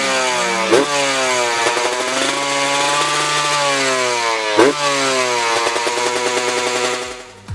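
Husqvarna 125 two-stroke dirt bike engine revving, its pitch sliding down and up through the revs. Two sudden breaks in the pitch come at about one second and at about four and a half seconds in.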